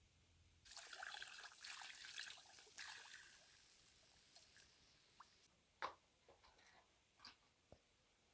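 Water pouring for a couple of seconds, then tapering off into a few separate drips.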